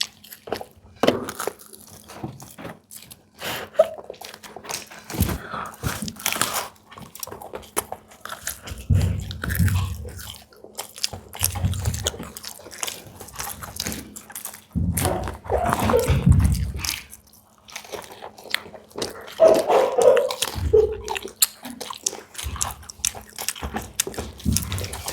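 Close-up eating sounds: samosas being bitten and chewed, the crisp fried pastry crunching, with many short mouth clicks and smacks. A faint steady hum sits underneath.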